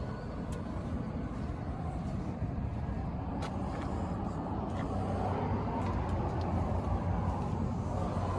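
A car engine running with a low, steady rumble that grows a little louder over the second half.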